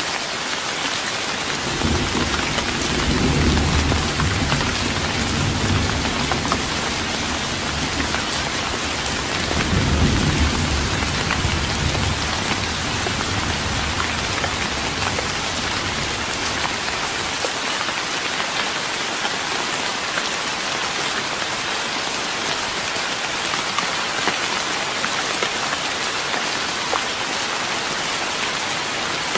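Steady rain pattering on a wooden deck. Thunder rumbles low under it, swelling twice, about two seconds in and again about ten seconds in, then dying away before the halfway point.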